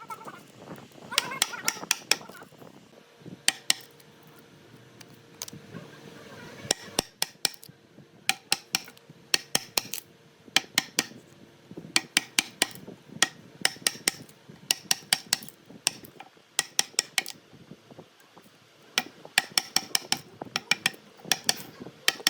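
Hammer strikes in quick runs of sharp, ringing taps, about three or four a second, with short pauses between runs.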